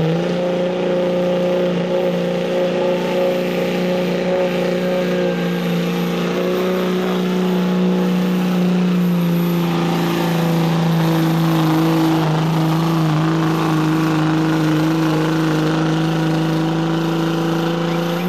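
Diesel pickup engine, a P-pump Cummins in a Dodge, held at full throttle while pulling a weight-transfer sled. It gives a steady loud drone that drops a little in pitch about halfway through, then cuts off suddenly near the end.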